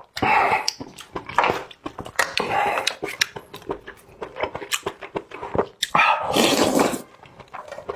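Close-miked eating: several wet slurps, the longest about six seconds in, between chewing and lip-smacking clicks.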